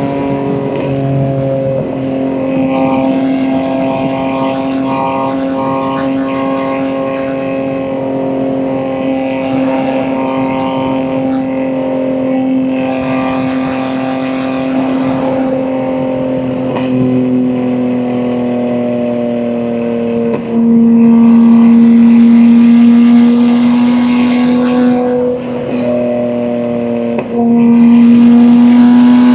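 Exhaust and engine note of a BMW M2 G87's S58 twin-turbo straight-six with catless downpipes and an equal-length mid pipe, running steadily with a slowly drifting pitch. About two-thirds in and again near the end it cuts out briefly at a gear change, then comes back louder under throttle.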